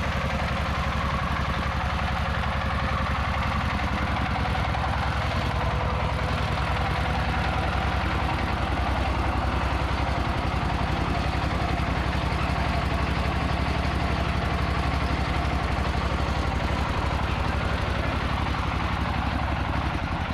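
Truck engine running steadily at an even speed.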